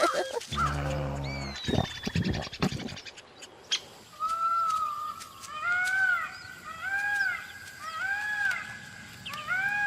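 Repeated animal calls from about four seconds in: short pitched notes that rise and fall, roughly one a second. Just before them, near the start, there is a brief low buzz.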